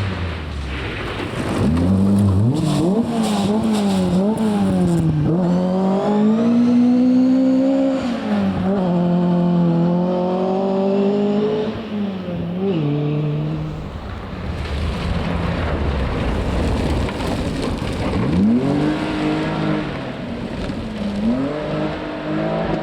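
Rally car engine revving hard as it passes: the pitch climbs under full throttle, jumps up and down through quick throttle and gear changes, then drops back in steps. A second rise comes near the end.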